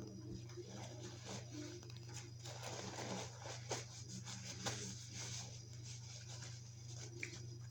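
Faint eating sounds: rustling and small clicks of takeout food and its packaging being handled, over a steady low hum.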